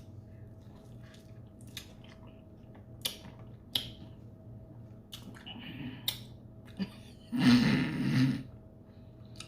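Close-up eating sounds of someone biting and sucking on a lemon wedge: scattered wet mouth smacks and chewing clicks. About seven and a half seconds in comes a short voiced sound lasting about a second.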